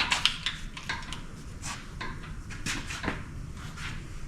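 Irregular metallic clicks and clinks of hand tools on an engine, a quick run of them at the start and single knocks after: head bolts being worked loose and handled as a cylinder head comes off a big-block Chevy engine.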